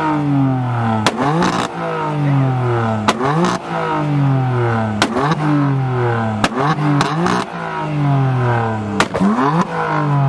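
Mitsubishi Lancer Evolution's turbocharged four-cylinder being free-revved, about five blips roughly two seconds apart. Each blip rises sharply with loud cracks from the exhaust, then the revs fall slowly back toward idle.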